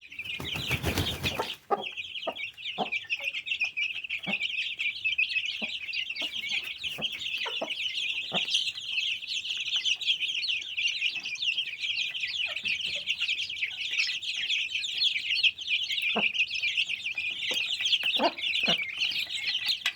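A brood of young Aseel chicks peeping continuously in a dense, high-pitched chorus of overlapping cheeps, with scattered soft taps beneath. A short burst of noise opens the sound.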